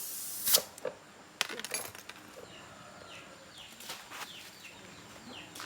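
A spray's hiss cuts off about half a second in, followed by a few sharp clicks and knocks of work on the motorbike, then faint short chirps.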